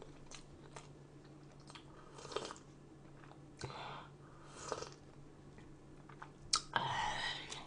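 A person chewing food close to the microphone, with soft crunching and small mouth clicks, louder near the end.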